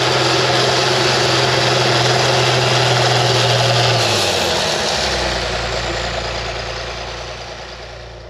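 International TD15C bulldozer's DT466 inline-six diesel engine running steadily under throttle, then throttled back about four seconds in: the engine note drops in pitch and the sound fades down toward idle.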